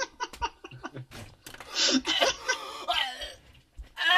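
A person laughing hard and uncontrollably: quick, choppy bursts at first, then louder wheezing, breathy gasps for about a second and a half from just under two seconds in.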